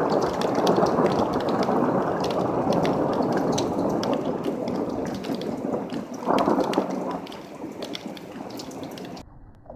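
Thunder rumbling through a heavy downpour, with a second swell about six seconds in; the storm sound cuts off suddenly near the end.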